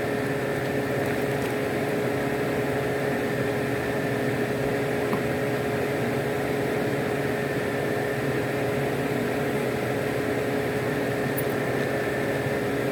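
Car idling close by: a steady, even engine hum with a few constant tones running through it.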